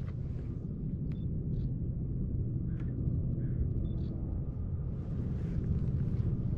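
Diesel engines of a passing San Francisco Bay ferry running, a steady low drone carried over the water, with a few faint short chirps and ticks above it.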